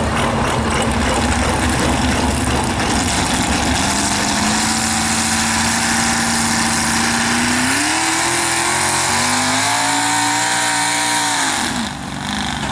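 A pulling truck's engine at full throttle under load on the sled. Its pitch holds steady, climbs in two steps past the middle, then falls sharply near the end as the throttle comes off and it gets quieter.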